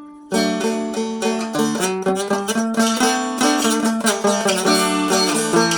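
Seagull Merlin, a fretted dulcimer-type acoustic instrument tuned D-A-D, being picked: after a short pause, a steady run of plucked notes starts about a third of a second in, with the open strings ringing on under the melody.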